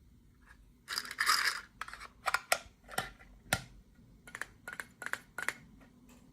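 Toy packaging being torn open and crinkled by hand: one longer tearing crackle about a second in, then a string of short sharp crinkles.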